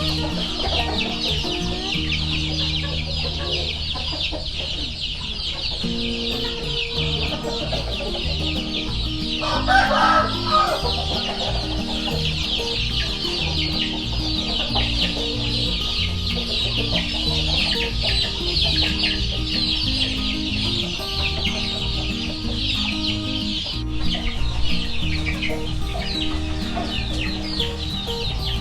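Chickens and chicks calling: a constant chorus of high peeping with clucks, and one louder call about ten seconds in, over background music.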